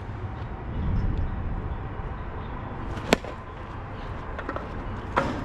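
A softball bat striking the ball: one sharp crack about three seconds in, followed by a second, lighter knock near the end.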